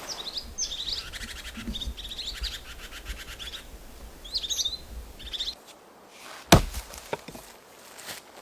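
Small songbirds chirping in quick runs of short notes, then a single loud sharp knock, like a chop into wood, about six and a half seconds in, followed by a couple of faint knocks.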